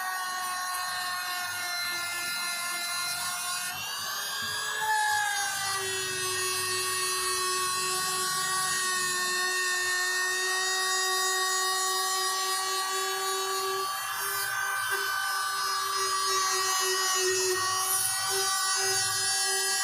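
Electric power tool motor whining at a steady pitch. The pitch shifts about four seconds in, wavers near the end, and shifts again at the end.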